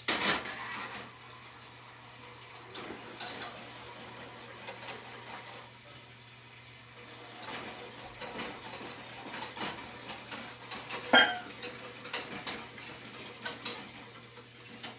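Spoon stirring and scraping in a pot of sweet and sour sauce as it thickens, with scattered clinks of utensil against metal. The loudest is a single ringing clink about eleven seconds in.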